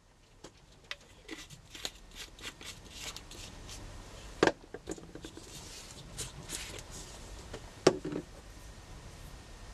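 Light scratching, tapping and rustling of hands working on a paper craft tag, with two louder clicks about four and a half and eight seconds in.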